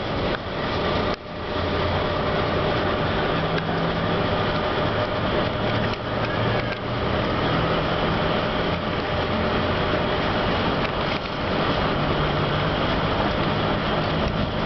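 Passenger train rolling as it pulls away, heard from an open coach window: steady running noise of the wheels on the rails and rushing air, over a low steady drone. A couple of sharp knocks come about a second in.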